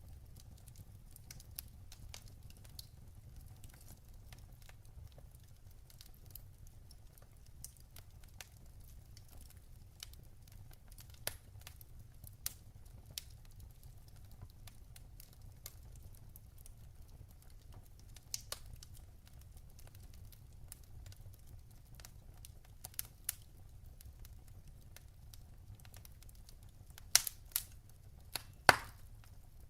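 Wood fire crackling, with scattered sharp pops over a low steady rumble; a quick cluster of louder pops comes near the end.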